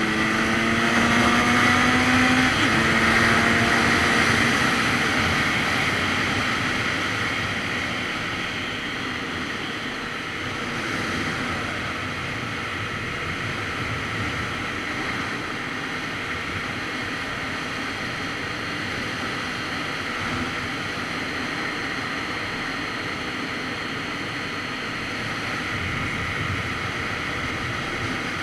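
Wind rushing past while riding a Kawasaki Z900RS Cafe, with the 948 cc inline-four engine note rising under acceleration in the first few seconds and a gear change about two and a half seconds in. The rush of wind then carries on steadily at cruising speed.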